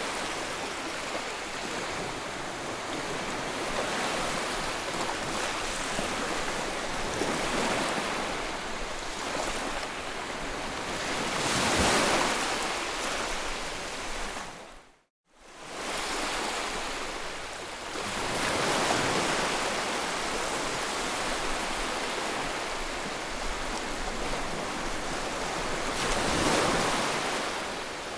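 Ocean surf: a steady wash of waves, swelling as waves break about twelve seconds in and again near the end. About halfway through the sound briefly cuts to silence and fades back in.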